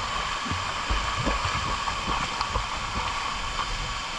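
Waterfall water rushing as a steady hiss, with a few low rumbles in the first half.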